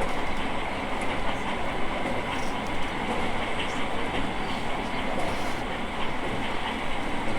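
E217 series electric train running at steady speed, heard from inside the car. A continuous rumble of wheels on rail carries a steady high whine, with a few light clicks from the track.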